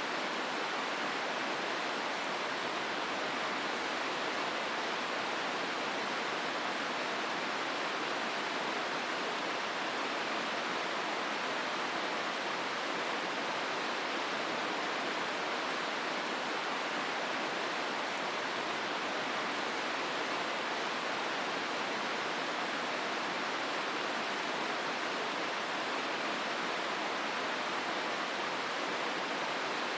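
Hozu River water running through its gorge: a steady, even wash of flowing-water noise that does not change.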